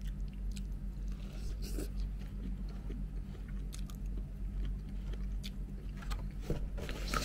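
Close-up mouth sounds of a person chewing food, with scattered small clicks and scrapes from a plastic fork working in a foam takeout box, over a steady low hum.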